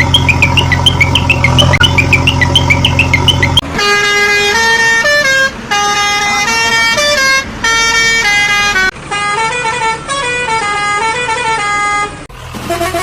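A vehicle engine running with a fast chirping rattle for a few seconds. Then a musical horn plays a tune of held notes with short breaks between phrases.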